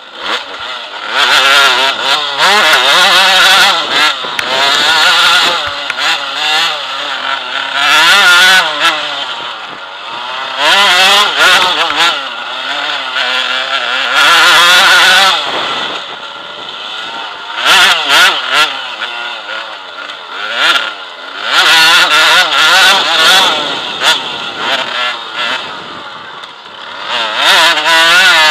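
KTM enduro motorcycle engine revving hard on an off-road course, its pitch rising and falling over and over as the throttle is opened and shut, with bursts of wind noise on the microphone.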